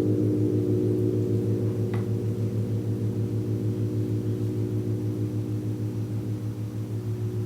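Gong ringing on after being struck: a dense low hum with a fast, even wobble, slowly dying away.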